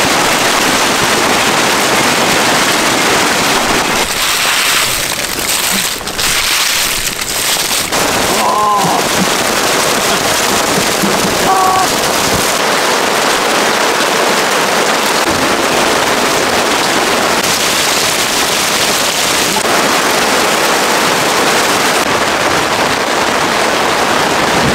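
Heavy downpour beating down steadily, a dense patter of hard drops with no let-up.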